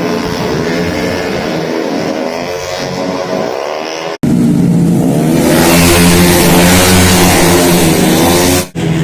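Tuned 130 cc automatic racing scooter engines running hard at high revs. The sound cuts off sharply twice, and after the first cut it is louder, with a harsher, hissier edge.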